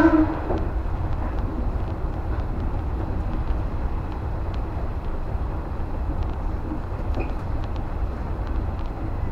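Steady running noise inside the front car of a JR West 115 series electric train: a low rumble of the train travelling along the track, with faint scattered clicks.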